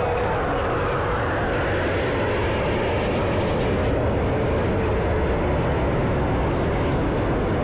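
Fixed-wing aircraft flying past, its engine noise a steady, dense din.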